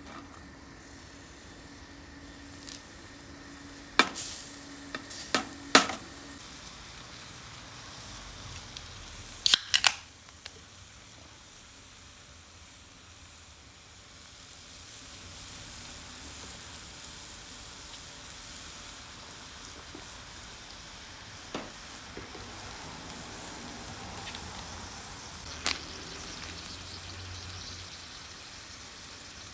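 Food sizzling faintly over charcoal in a shichirin grill: a steady soft hiss, broken by a few sharp clicks and snaps in the first ten seconds and two more later on.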